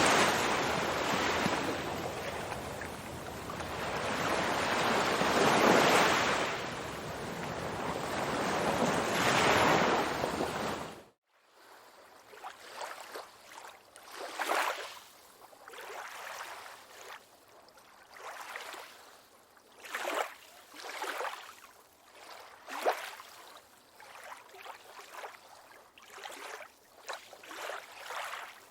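Ocean waves: loud surf in slow swells that cuts off abruptly about eleven seconds in, giving way to quieter water lapping in separate small splashes every second or two.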